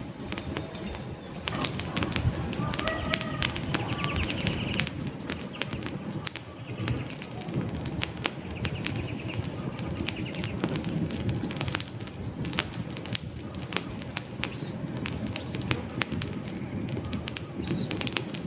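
Campfire burning, with dense irregular crackles and pops of the wood over a steady low rush of flames. A few faint bird calls come through, around three seconds in and again near the end.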